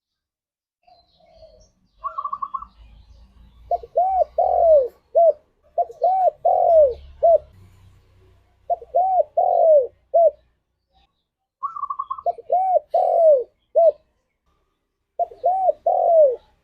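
Spotted dove (tekukur) calling: about five phrases of coos, each note rising then falling in pitch, with two phrases opened by a short, higher rapid trill. A faint low rumble sits under the first half.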